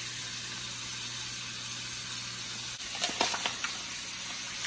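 Steady sizzling hiss of bacon and sausage frying, with a few light clicks and taps about three seconds in.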